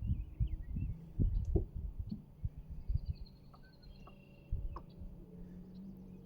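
Irregular dull knocks and bumps close to the microphone, with faint bird chirps and whistles in the background.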